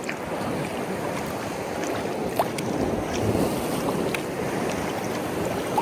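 Water splashing and swishing around a sea kayak and its paddle as it is paddled, over a steady rush of wind on the microphone.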